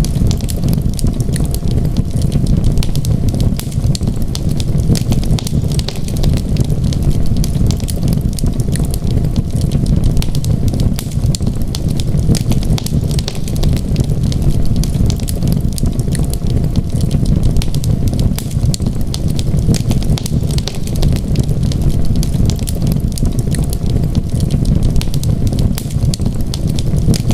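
Wood fire crackling: a continuous scatter of small snaps and pops over a steady low rumble.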